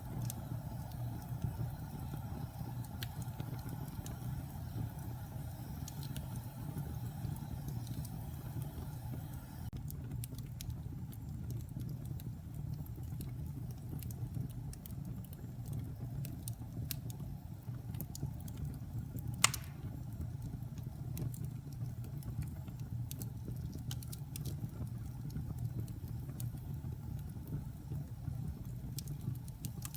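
Wood-burning fireplace: a steady low rumble from the fire with scattered small crackles, and one sharp, louder pop about two-thirds of the way through.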